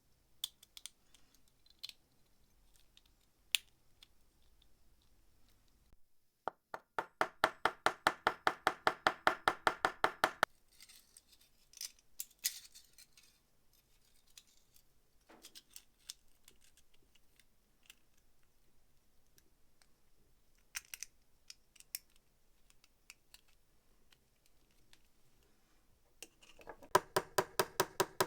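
Rapid, even metallic clicking at about ten clicks a second, in a run of about four seconds and a second run starting near the end. Scattered single ticks and light scrapes fall in between.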